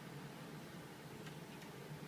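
Quiet background hiss with two faint ticks, about a second and a half apart.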